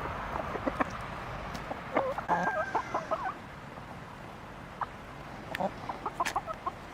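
Chickens clucking in two short bouts of choppy calls, one about two seconds in and another near the end.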